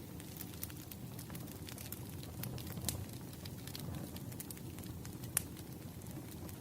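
Wood fire burning: a low steady rumble with scattered sharp crackles and pops, the sharpest about three and five seconds in.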